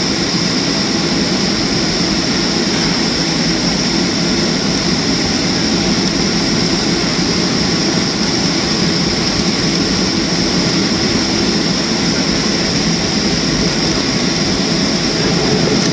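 Steady cabin noise of a Boeing 737-300 on its landing flight: the jet engines and airflow make a constant roar with a high hiss on top, heard from inside the cabin.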